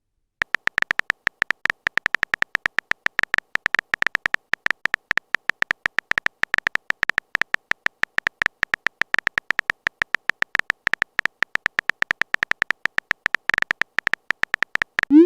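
Rapid, uneven string of short high electronic beeps, several a second, all on the same pitch: a text-typing sound effect.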